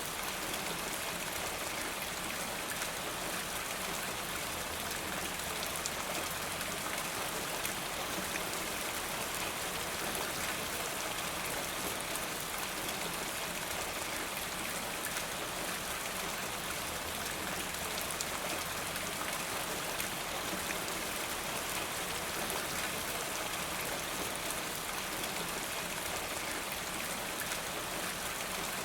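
Steady rain with many small drops pattering, and water running off a rain gutter.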